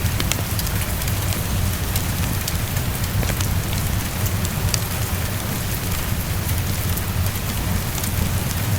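Steady heavy rain pattering against a window over a low rumble, with scattered sharp crackles from a wood fire.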